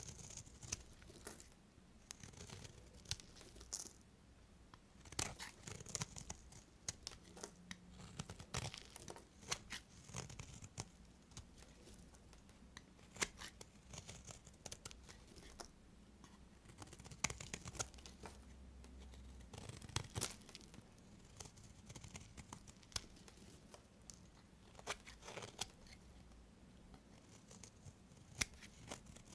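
Soap being cut and handled with a knife: scattered crisp cracks, scrapes and clicks, with quieter stretches in between.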